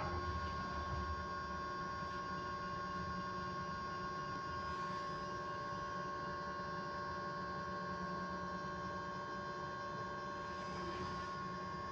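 Electric bus giving off a steady, constant-pitch electrical whine with a few fainter steady tones above and below it, over low road rumble heard inside the cabin.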